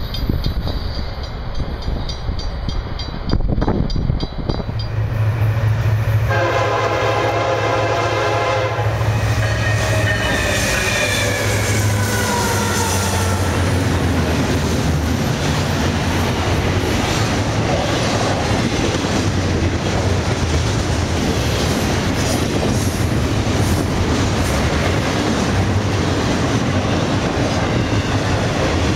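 Grade-crossing bell ringing, then a Florida East Coast freight train's diesel locomotives sounding their horn chord, which drops in pitch as they pass. The engines' low drone follows, with the steady rumble and clickety-clack of double-stack intermodal well cars rolling by.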